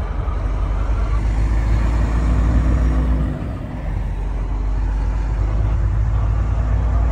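Heavy truck's diesel engine running while driving, a deep steady drone over road noise, dipping briefly about halfway through.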